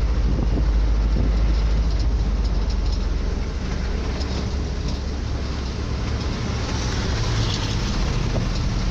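Moving road vehicle noise: a steady heavy low rumble of engine and road, a little louder in the first few seconds.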